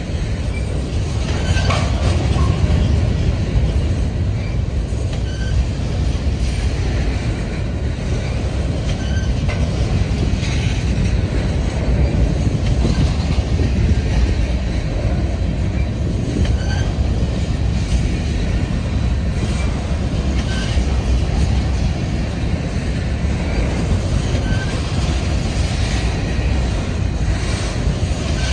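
Freight train of covered hopper cars rolling past: a steady rumble of steel wheels on rail, with clicks every few seconds and faint, brief wheel squeals.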